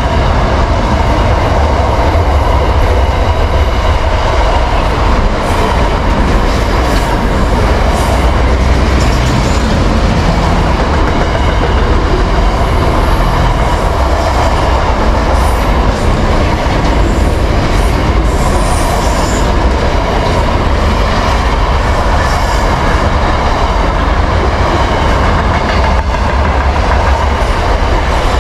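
Double-stacked container wagons of a freight train rolling past close by: a loud, steady rumble and rattle of wheels over the rails, with faint wheel squeals now and then.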